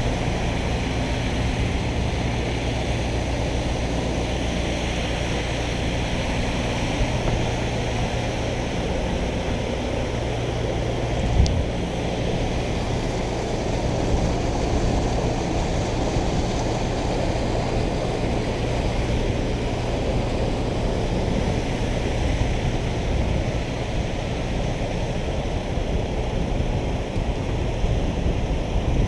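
A steady motor drone under a wash of wind and water noise, with one thump about eleven seconds in; after the thump the drone fades and the noise carries on.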